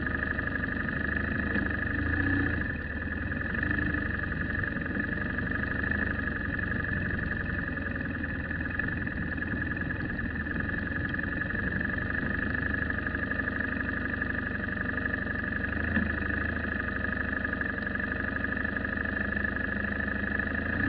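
A motor vehicle running, a steady drone of engine and road noise with a constant high hum. There is a short knock about sixteen seconds in.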